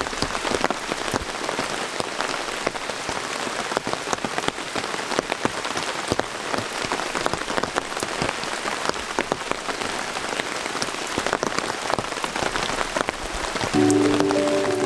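Steady rain falling, with many separate drop hits sounding throughout. Background music comes in about a second before the end.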